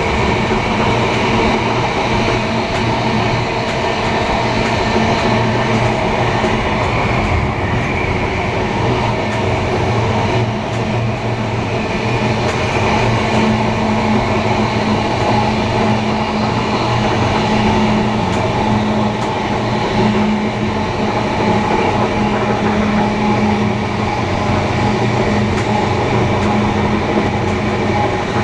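Train running steadily: a continuous rail rumble with a steady low hum and no breaks.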